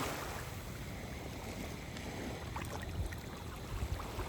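Shallow sea water lapping gently at the shore, with wind on the microphone and a few faint small splashes or clicks near the end.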